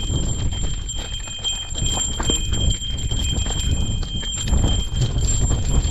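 Irregular footsteps and knocks of a mountain bike being pushed up a rocky trail, over a constant low rumble of wind and handling on the microphone.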